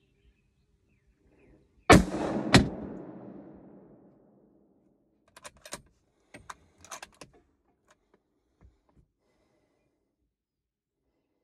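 A single hunting rifle shot: a sharp crack, a second crack about half a second later and a long rolling echo. A few seconds later come a run of short metallic clicks and clacks, as the rifle's bolt is worked.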